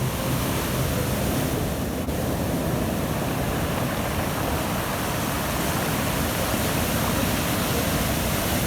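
Storm surf and wind in a windstorm, a steady rushing noise with no distinct single wave crashes.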